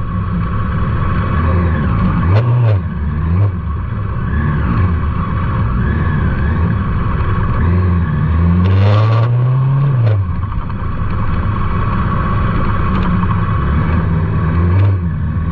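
Motorcycle engine running under changing throttle, its pitch dipping and rising, with a longer rising rev about eight seconds in. A brief hiss sounds around nine seconds in.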